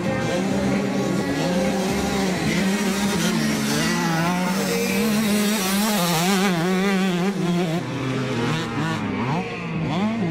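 Motocross bike engines racing, their pitch rising and falling as the riders work the throttle, with a stretch of quick up-and-down revving about halfway through.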